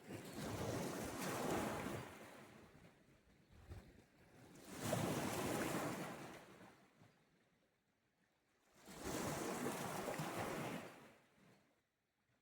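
Sea waves washing in on the shore three times, each wash rising and falling away over about two seconds, with quiet gaps between.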